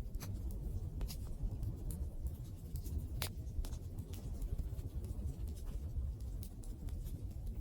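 Wood fire burning: a steady low rush under scattered sharp crackles and pops from the burning wood, with one louder pop about three seconds in.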